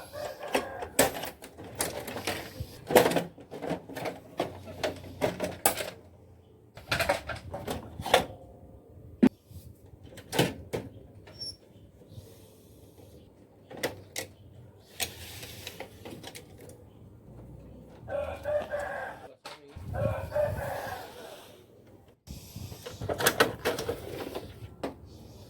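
Irregular clicks, knocks and rattles of a Canon imageRUNNER copier being worked on by hand, with its covers and parts handled. A few longer calls can be heard in the background in the second half.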